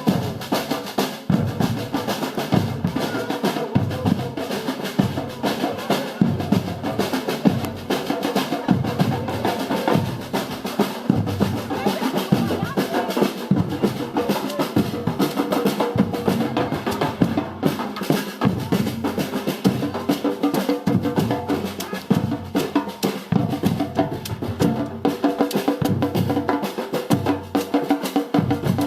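Samba drum group warming up, playing a steady groove together: deep bass drums beating under dense snare drum rolls.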